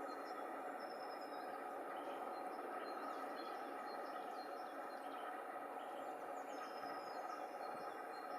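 Several small birds chirping and whistling faintly in short scattered notes, over a steady rushing background noise.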